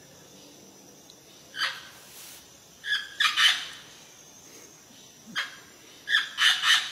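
Amazon parrot squawking in short calls: one about a second and a half in, a quick run of three around three seconds, another single call, then a run of three near the end.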